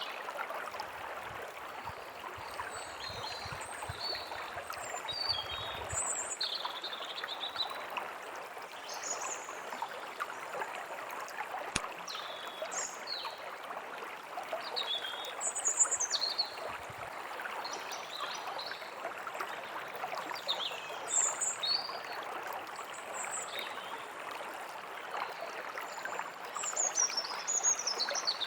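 A stream running steadily, with small birds chirping and calling in short, scattered notes over it.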